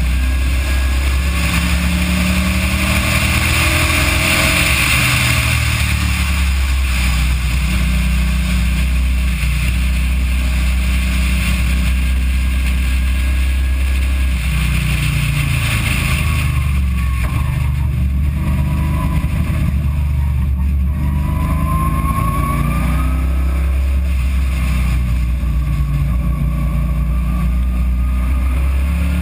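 Car engine heard from inside the car through a poor-quality camera microphone, running steadily at part throttle in fourth gear around 3,600–3,900 rpm along a straight, then slowing and changing down to third in the second half, over low rumbling road and wind noise.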